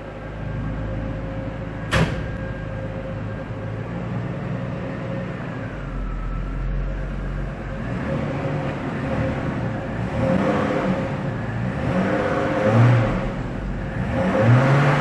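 Jaguar XJ40 XJ6's straight-six engine running after years in storage, with a steady whine over it and a single sharp knock about two seconds in. From about eight seconds in the revs rise and fall several times, louder each time, as the car is worked to get it moving.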